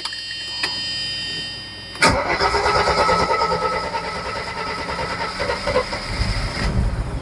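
Car engine started: the starter turns it over for about two seconds, then it catches with a sudden jump in loudness and runs on steadily, the sound easing somewhat near the end.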